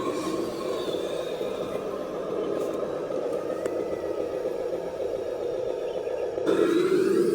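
Radio-controlled scale dump truck running, a steady mechanical drone with a faint whine that shifts in pitch. It gets suddenly louder about six and a half seconds in.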